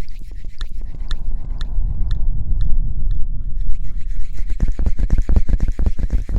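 Close-miked scratching and rubbing on the microphone, like ASMR hair-washing sounds. It starts as slow strokes about twice a second over a heavy low rumble, then turns to quick, dense scratching about four seconds in.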